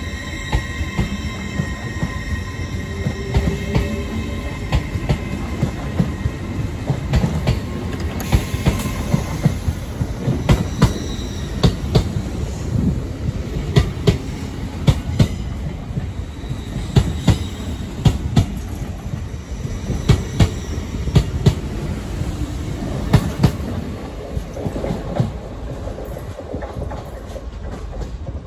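LNER Azuma train pulling out and moving past with a steady rumble, its wheels clattering over points and rail joints in sharp, irregular clacks. A steady high whine from the train fades out about eight seconds in.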